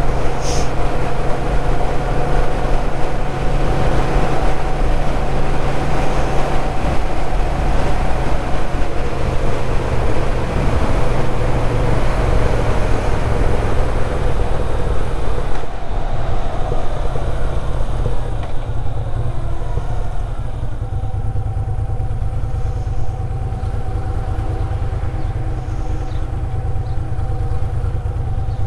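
Moto Guzzi V7's air-cooled transverse V-twin running under way, heard from the rider's seat with wind rush. About two-thirds of the way through it eases off and gets quieter as the bike slows behind traffic.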